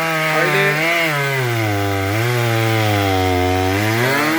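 Chainsaw cutting into the trunk of a large silk cotton (simal) tree. Its engine pitch drops as the chain bogs down in the cut and rises again, twice over.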